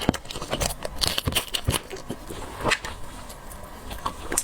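Close-miked eating of seafood: irregular crackly clicks of chewing and of handling shellfish.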